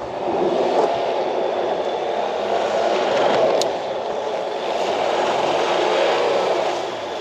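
Pickup truck driving through deep snow: the engine running under load with the tyres pushing and scraping through snow, a steady, dense noise with a slightly wavering engine pitch.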